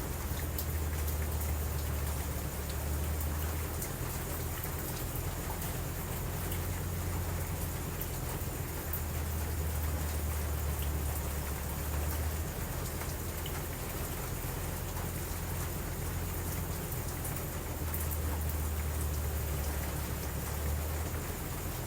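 Steady rain, with a low rumble underneath that eases off about halfway and comes back near the end.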